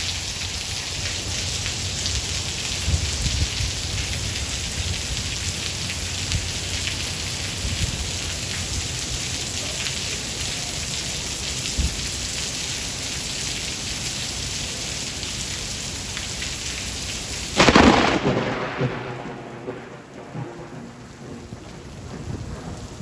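Steady heavy rain with low rolling thunder. About eighteen seconds in, a sharp, loud thunderclap cracks and dies away into rumbling, and the rain sounds lighter after it.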